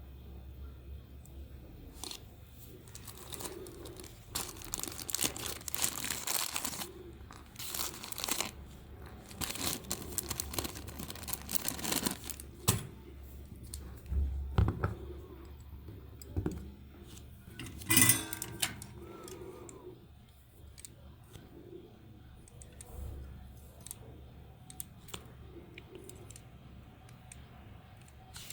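Irregular scraping and rustling noises in bursts, with scattered sharp clicks and one louder burst about two-thirds of the way through.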